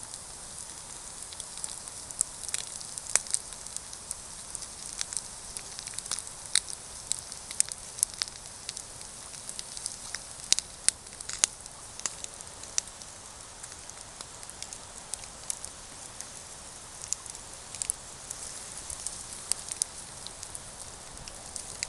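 Wood campfire crackling, with frequent irregular sharp pops over a steady hiss.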